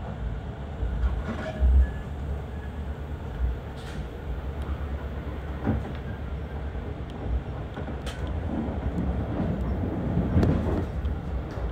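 Passenger train running along the line, heard from inside the carriage: a steady low rumble with a few sharp clicks scattered through it.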